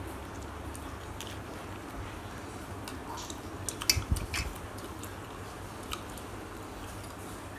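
A person eating: chewing and biting food, with scattered small clicks and a brief flurry of louder clicks and a soft thump about four seconds in.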